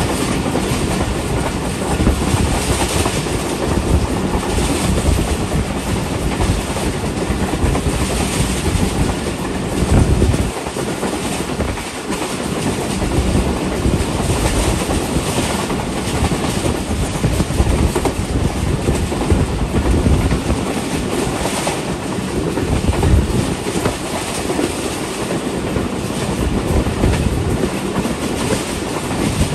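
Passenger train running along the track, heard from on board: a steady rumble of wheels on rails with recurring clickety-clack as the wheels pass over rail joints.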